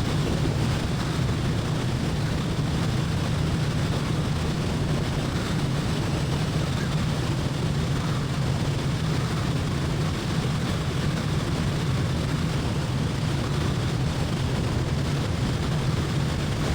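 Light aircraft's piston engine and propeller droning steadily, heard from inside the cockpit during the descent toward landing.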